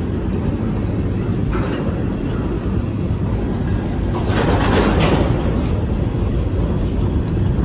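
Freight train rolling past: a steady low rumble, with a louder rushing swell about halfway through.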